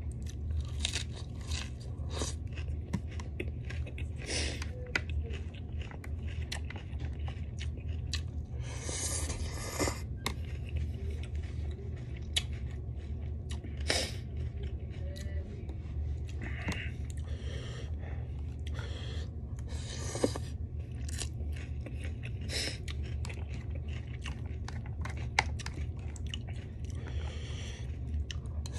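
Close-miked eating: wet chewing and crunching of lettuce and noodles, with many short mouth clicks and a few longer breathy, slurping noises, over a steady low hum.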